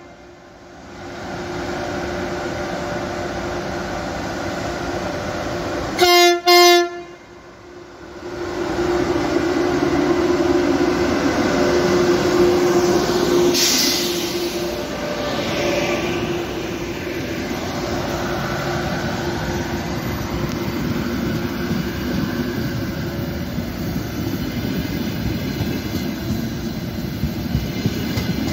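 An ETR 500 high-speed electric train sounds two short horn blasts about six seconds in. It then rushes past close by, its wheels and cars making a loud, steady rumble with some clatter.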